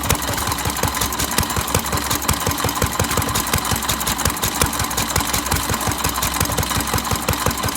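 Fairbanks-Morse 'dishpan' single-cylinder antique gas engine running steadily, with a rapid, even clatter of firing and valve strokes.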